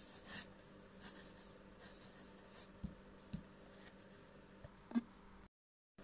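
Pen scratching across paper in quick, separate strokes as a flowing signature is written. There are a few soft taps about three seconds in and near five seconds, and the sound cuts out completely just before the end.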